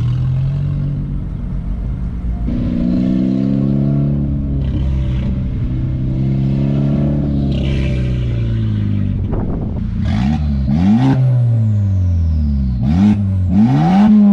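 Honda Civic Type R's turbocharged four-cylinder, fitted with a catless downpipe, driving by. Its note rises and falls as it passes. In the last few seconds it gives several quick revs, each climbing sharply and then dropping away.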